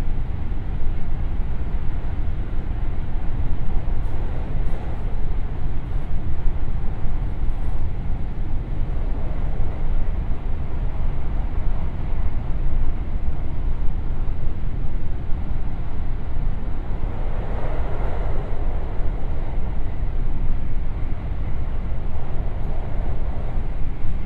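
Interior of a JR West 521 series electric train running at speed through a tunnel: a steady, loud low rumble of wheels on rail, swelling briefly about two-thirds of the way through.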